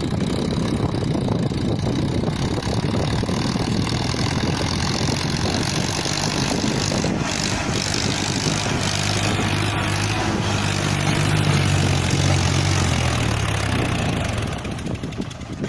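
Swaraj 963 FE tractor's diesel engine running hard, pulling a heavily loaded trolley. Its pitched hum comes through most strongly past the middle, then eases off near the end.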